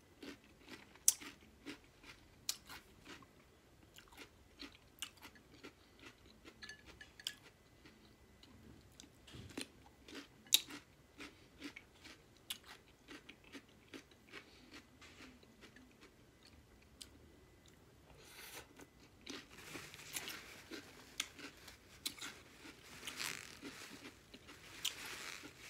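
Close-up crunching and chewing of a cold, partly frozen cucumber spear: sharp separate crunches spaced through the bites. Near the end there is a longer stretch of rustling as a paper towel is handled.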